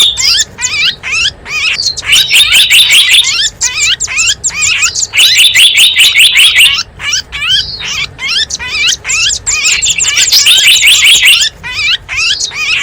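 Small wild birds chirping and chattering rapidly, many quick high notes and sweeping calls overlapping, in dense stretches of a second or two with short breaks between. It is a lure recording played to draw wild small birds in.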